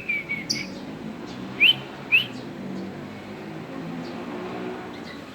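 Lovebird chirping: a quick run of short calls at the start, then two sharp rising chirps about a second and a half and two seconds in.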